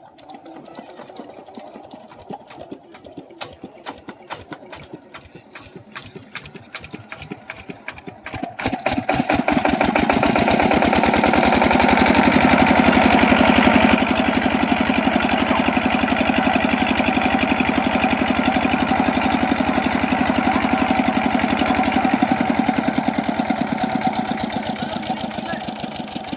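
Single-cylinder 8 HP diesel water-pump engine starting: uneven knocks for the first eight seconds or so, then it picks up and runs fast and steady, much louder.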